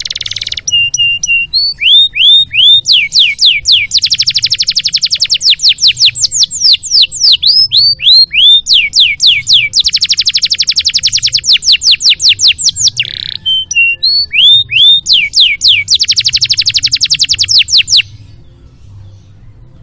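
Domestic canary singing loudly: strings of quick sweeping whistled notes broken by three long, very rapid rolling trills, the song stopping shortly before the end. A faint low hum runs underneath.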